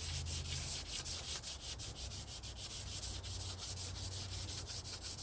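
Hand scrubbing a car part clean, quick back-and-forth rubbing strokes at about seven or eight a second, taking off old sticky residue.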